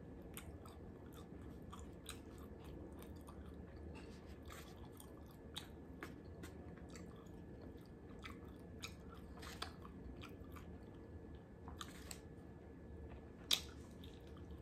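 Chewing extra-crispy fried food: faint, irregular crunches and mouth clicks, with one sharper click near the end.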